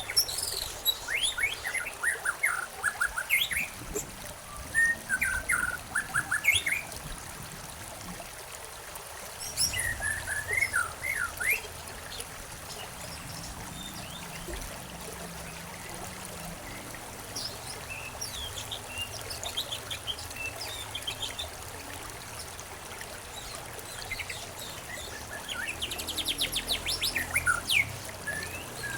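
Songbirds chirping and twittering in clusters of short calls over a steady trickle of running water, ending in a fast trill near the end.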